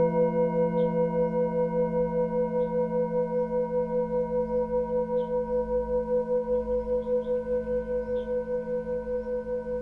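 A singing bowl ringing on after a strike, its tone pulsing in loudness and slowly fading. Small birds chirp faintly several times.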